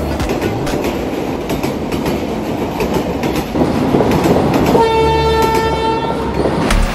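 Toy model train rolling along its track with a steady clattering rattle. About two-thirds of the way through, its horn sounds one steady blast lasting about a second and a half.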